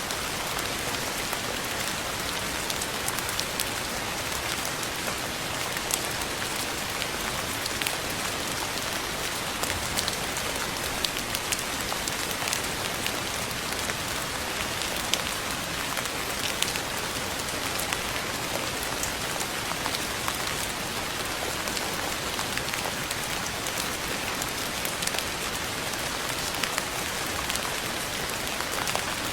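Steady rain falling on a surface, an even hiss with many sharp drop ticks scattered through it.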